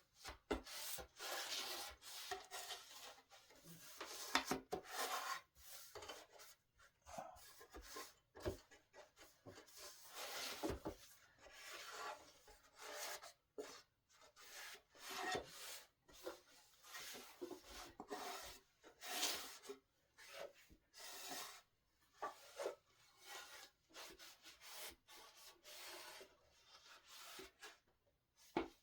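Solid-wood tabletop being wiped down by hand, a cloth rubbing across the wood in irregular back-and-forth strokes with short pauses.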